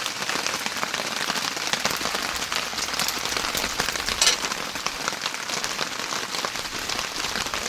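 Heavy rain falling steadily, a dense hiss of many small drop impacts, with one louder knock about four seconds in.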